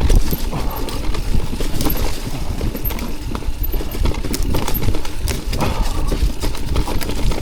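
Electric mountain bike clattering and rattling over roots, small logs and twigs on a steep wooded descent, with uneven knocks and tyre rumble. A low rumble of wind on the microphone runs beneath.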